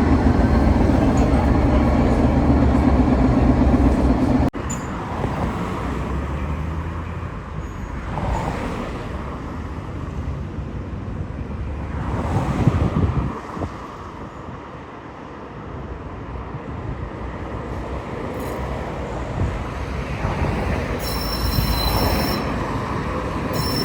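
Tatra tram running on street track: a loud, steady low hum for the first few seconds, then, after an abrupt change, quieter rolling and rumbling noise. High-pitched wheel squeal about 21 s in, and again just at the end.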